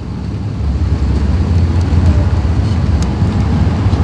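Cabin noise inside an Airbus A380: a steady low rumble, with a single short click about three seconds in.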